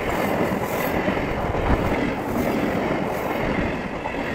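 Electric passenger train coaches rushing past at close range: a steady rumble of steel wheels running on the rails, with the rush of the passing cars.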